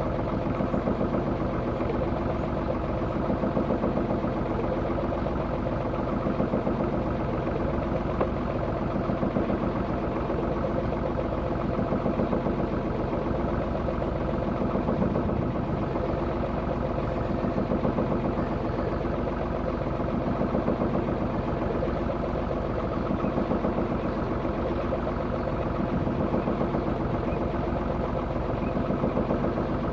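A Macwester sailing boat's engine running steadily under way, its level swelling and easing in a slow, regular throb.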